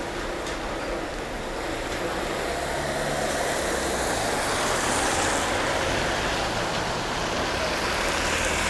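Road traffic on a wet street: a motor vehicle drives past with tyre hiss and a low engine note, swelling about halfway through.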